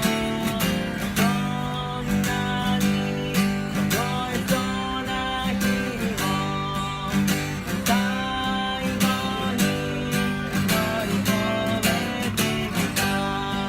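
Acoustic guitar strummed in a steady rhythm, with a sustained melody line gliding over it, played live.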